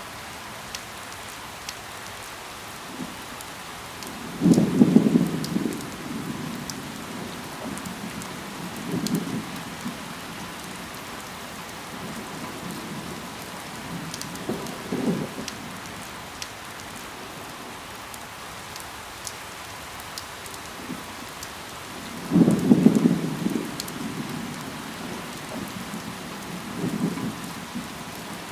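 Steady rain with scattered drops ticking, broken by five short low rumbles, each about a second long. The two loudest come a few seconds in and about three quarters of the way through.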